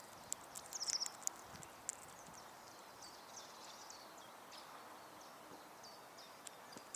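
Small songbirds chirping and calling in short, high notes, with a quick run of chirps about a second in and a few sharp taps scattered among them.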